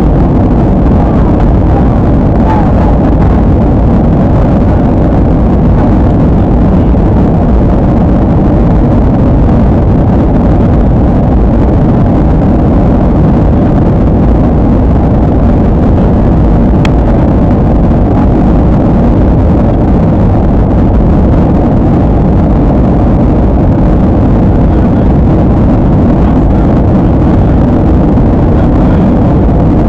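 Airliner cabin noise in flight: a steady, loud, low rumble of jet engines and airflow that does not change.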